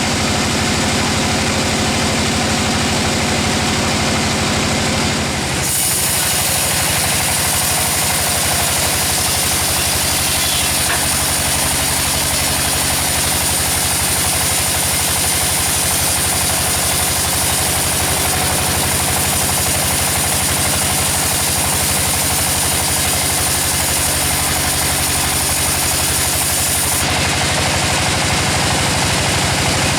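Engine-driven sawmill saw running steadily. A loud high hiss comes in suddenly about five seconds in and stops near the end, typical of the blade cutting through the teak log.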